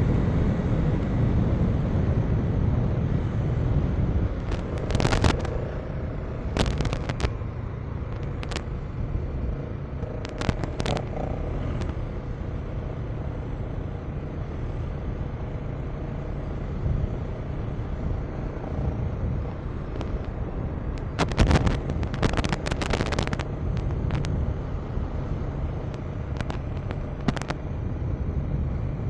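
KTM 390 Enduro R single-cylinder engine running at a steady riding speed, with wind rush, broken by sharp knocks: a few single ones early and a dense cluster about three quarters of the way through.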